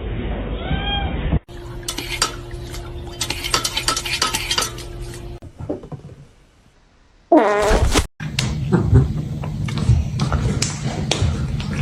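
A cat meowing briefly, then clinking and clattering like dishes or cutlery, with many sharp clicks. About seven and a half seconds in there is a short, loud, drawn-out call falling in pitch, followed by more clicks and knocks.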